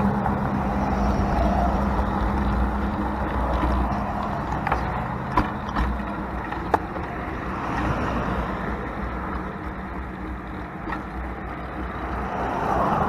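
Motor traffic on a four-lane road: a vehicle's engine hum fades away over the first few seconds under a continuous traffic rumble, with a few sharp clicks around the middle.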